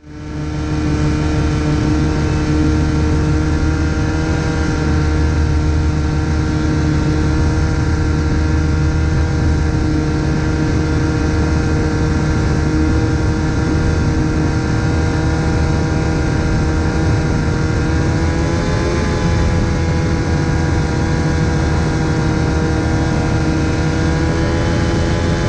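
Rotax 377 two-cylinder two-stroke engine of an ultralight running steadily at a constant speed. About two-thirds of the way through it briefly wavers and settles a little higher.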